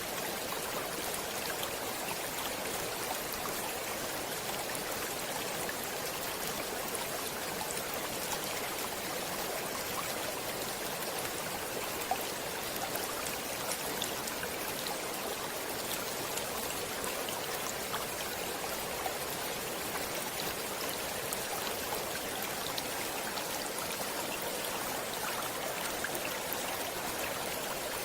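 A stream flowing steadily over rocks, a continuous rushing and splashing with fine droplet clicks.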